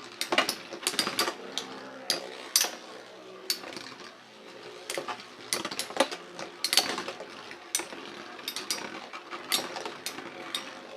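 Metal-wheeled Beyblade spinning tops battling in a stadium: irregular sharp clacks as they strike each other and the stadium wall, over a faint steady whir of spinning.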